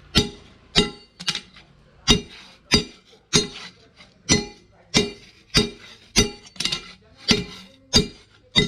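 Hand hammer striking chainsaw-bar steel on an anvil in a steady rhythm, about fourteen blows with a short pause now and then, each with a bright metallic ring.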